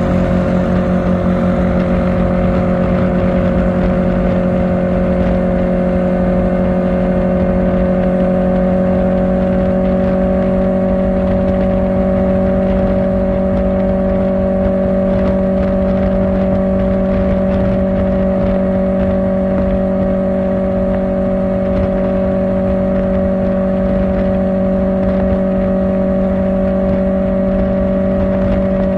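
Kawasaki Ninja ZX-4R inline-four engine with an Akrapovic exhaust, running steadily at cruising speed. Its pitch creeps up slightly over the first ten seconds, then holds.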